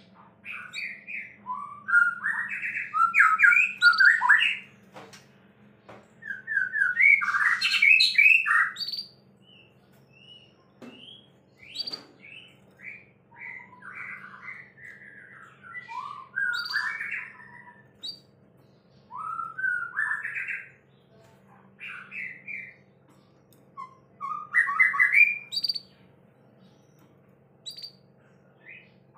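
White-rumped shama (murai batu) singing: varied whistled and chattering phrases in loud bursts a few seconds apart, with a faint steady hum underneath.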